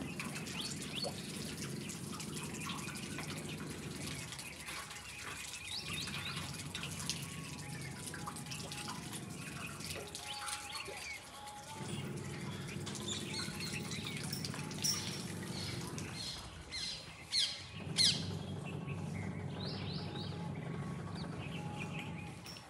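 Birds chirping and calling, with a few louder chirps in the second half, over a low steady hum that cuts out for a second or two about every six seconds.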